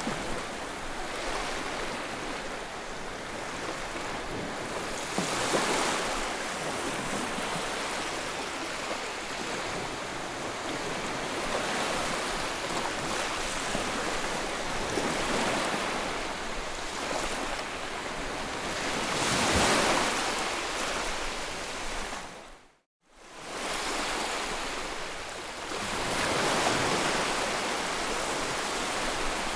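Ocean waves washing onto the shore, a steady rush of surf that swells as individual waves break every several seconds. About two-thirds of the way through the sound dips briefly to silence and comes back, like a splice in the recording.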